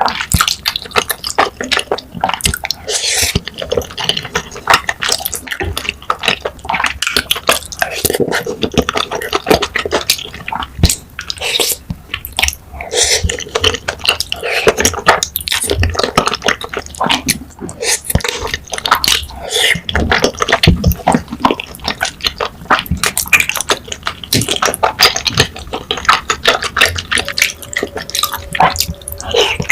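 A person eating close to the microphone: wet chewing and lip-smacking on soft, saucy food, with dense, irregular sticky clicks.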